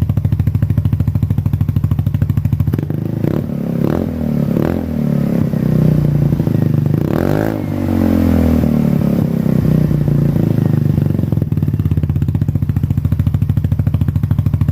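Polaris Ace 150's single-cylinder four-stroke engine running through an aftermarket slip-on muffler with its resonator in, idling steadily. About three seconds in the throttle is blipped three times in quick succession, then it is revved up once, higher and longer, around seven seconds in, and falls back to a steady idle.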